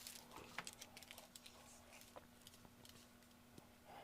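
Near silence with faint, scattered light clicks and ticks of small plastic model-kit parts being handled and cut with an ultrasonic knife, over a faint steady hum.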